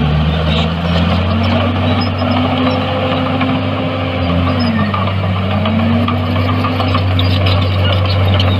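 Heavy diesel engines of earthmoving machinery running steadily, with a second engine tone that rises, dips about halfway through and comes back up as the machine changes speed.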